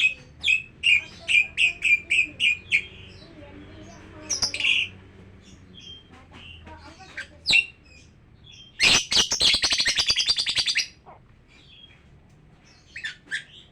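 Lovebirds calling: a run of sharp chirps, about three a second, for the first few seconds, then scattered calls. Past the middle comes a loud, fast chattering burst of about two seconds, and a few more chirps near the end.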